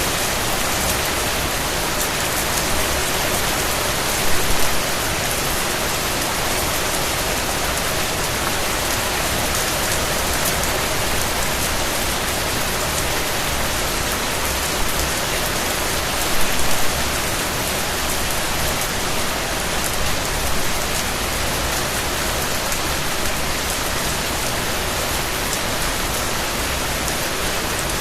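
Steady rain falling, an even hiss with fine scattered drop ticks and a few short louder patches.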